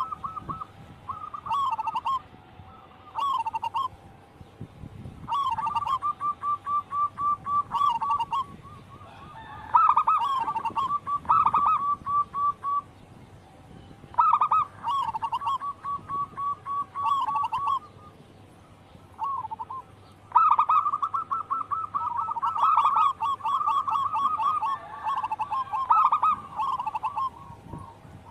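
Zebra doves (perkutut) cooing in repeated phrases of rapid rolling coos, each lasting a second to a few seconds with short pauses between. Phrases run together and overlap from about two-thirds of the way in.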